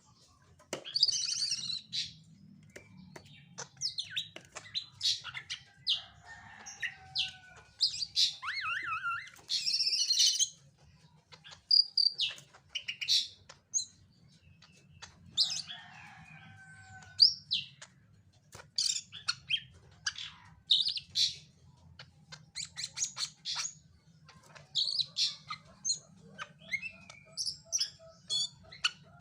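Cucak ijo (greater green leafbird) singing a quick, varied string of sharp chirps and whistled phrases with short pauses between them, over a faint steady low hum.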